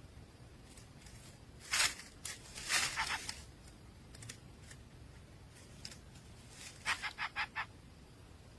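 Nestling birds giving short rasping calls: a few bursts about two seconds in, then a quick run of five near the end.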